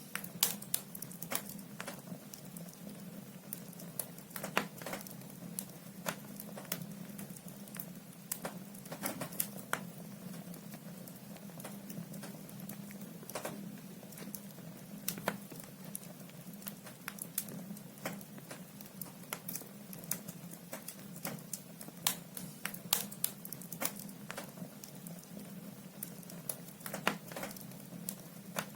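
Wood logs burning in a fireplace, crackling and popping at irregular intervals over a steady low hum.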